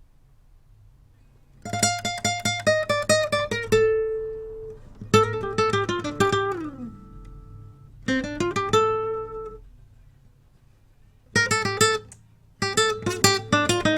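Solo guitar track played back through a compressor: short phrases of quickly repeated picked notes, one running downward, with brief pauses between the phrases.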